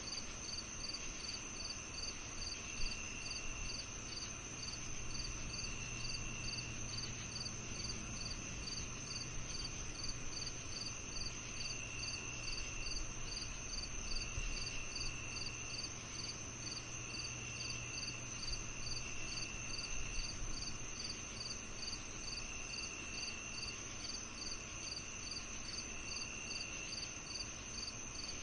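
Summer evening insect chorus of crickets: a continuous high drone, rapid chirps pulsing about twice a second, and a lower trill lasting about a second that comes back every couple of seconds.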